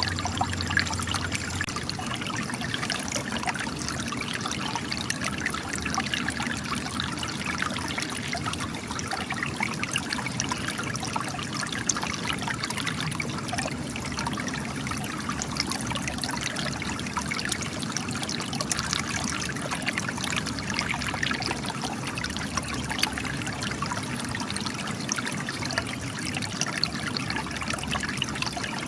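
Spring water trickling and splashing steadily as it gushes from cracks in rock.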